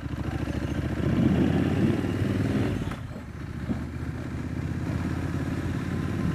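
Triumph parallel-twin motorcycle engine pulling away under throttle, getting louder over the first two seconds. The note drops about three seconds in as the throttle eases, then it runs on steadily.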